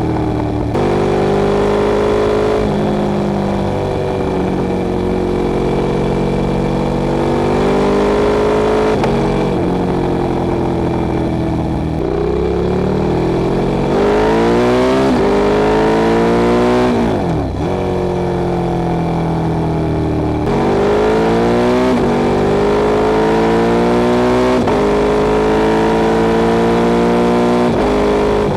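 Ducati Streetfighter 848's 849 cc L-twin engine under way, its pitch climbing through the revs and stepping down at each upshift, about eight shifts in all. About seventeen seconds in the pitch falls steeply as the bike slows, then it pulls hard again up through the gears.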